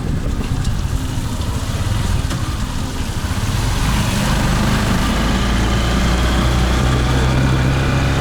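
Small engine running steadily under way, getting a little louder and higher in pitch about halfway through.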